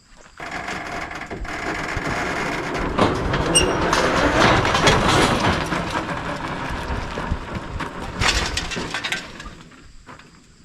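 An antique Allis-Chalmers tractor rolling off a trailer under its own weight: a rumbling, rattling clatter of the tractor and trailer that starts suddenly, is loudest in the middle, and dies away near the end, with a last burst of clatter.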